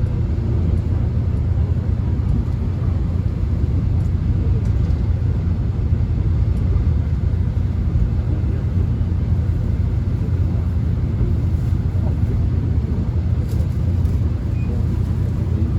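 Steady low rumble and running noise heard from inside a Korean subway car as the train runs, without a break or change.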